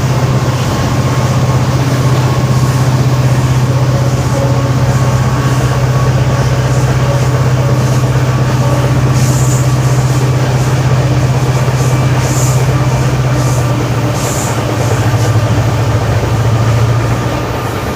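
Passenger train running along behind a WDP4D diesel locomotive, its EMD two-stroke engine giving a strong steady low hum. A few brief high hisses sound about nine, twelve and fourteen seconds in.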